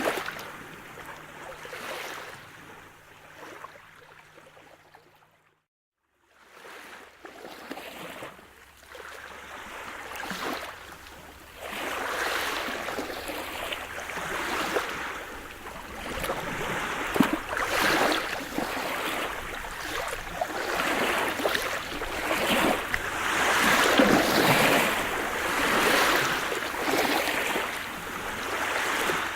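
Sea surf: waves breaking and washing in a steady rush. It fades out to a moment of silence about six seconds in, then comes back and builds louder, with waves surging in one after another.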